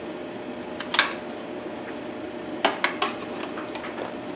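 Sharp metal clinks of a wrench working nuts tight on a sheet-metal panel, about six scattered clicks over a low steady background.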